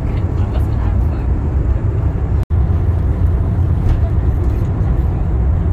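Cabin noise inside an ICE high-speed train running at about 311 km/h: a steady low rumble with a hiss of rushing air and track noise. It cuts out for an instant about halfway, then carries on unchanged.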